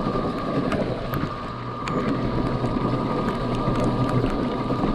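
Yatri P1 electric motorcycle riding slowly over a muddy, rocky track: a steady whine from the electric drive, with scattered ticks and clicks of stones and mud under the tyres.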